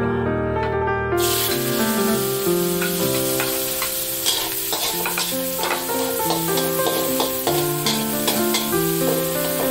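Chopped garlic dropped into hot oil in a wok, sizzling starting suddenly about a second in, with a metal spatula scraping and tapping the wok as it is stirred. Background music with sustained notes plays throughout.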